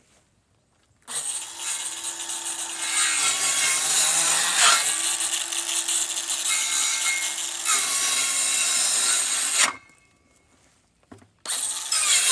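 Power saw running and cutting through wood to make small plugs, in one long cut of about eight and a half seconds, then a second short cut of about a second near the end.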